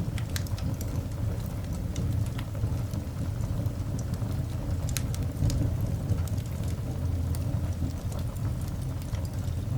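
Coal fire burning in a cast iron dog grate: scattered small crackles and pops over a steady low rumble, with one sharper pop about five seconds in.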